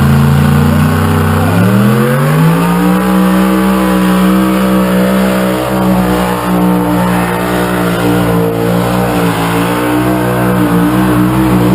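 Pulling tractor's engine running hard under full load down the track. Its pitch climbs about two seconds in, then holds steady at high revs.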